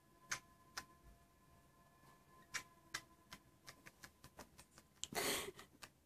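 Budgies making a series of light clicks and taps, sparse at first and then quicker, about four a second, with a short scratchy chirp near the end.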